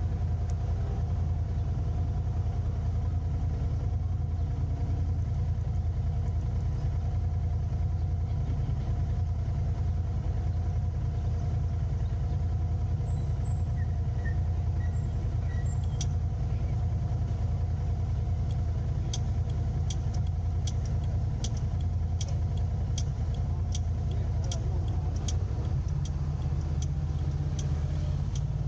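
Steady low engine and road rumble of a car being driven, heard from inside. About two-thirds of the way through, a regular ticking starts at about two ticks a second, the turn-signal indicator clicking.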